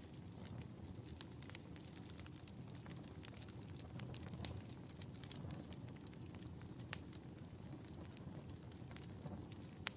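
Wood fire crackling in a fireplace: a steady low rumble of flames under frequent small clicks and a few louder pops, the sharpest about seven seconds in and again near the end.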